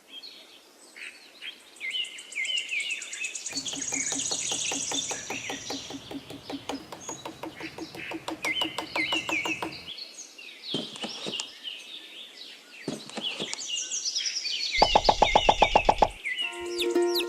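Small birds chirping and twittering throughout. A rapid, even pulsing joins them for several seconds after the start, and a louder burst of rapid pulses comes near the end.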